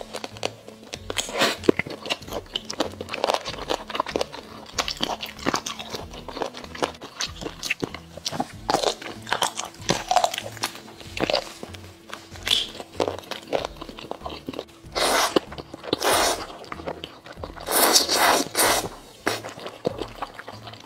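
Close-miked biting and chewing of a sauce-coated octopus tentacle: a run of wet smacks and clicks, with two louder bursts in the second half. Soft background music plays underneath.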